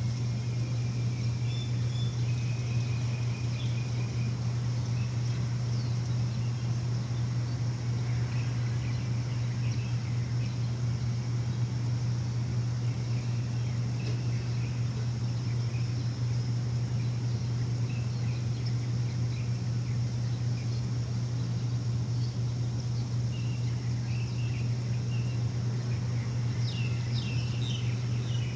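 A steady low machine hum, with birds chirping here and there above it: a short trill near the start and a quick cluster of chirps near the end.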